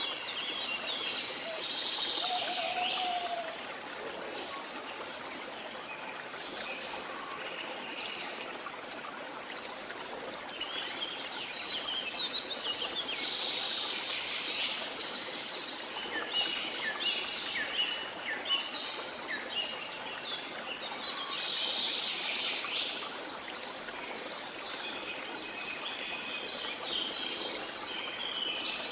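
Steady rush of a waterfall, with wild birds chirping and singing over it in several bouts.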